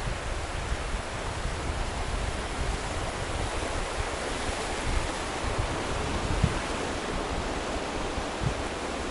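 Waterfall swollen by heavy rain, water rushing steadily, with a few short low bumps, the strongest about six and a half seconds in.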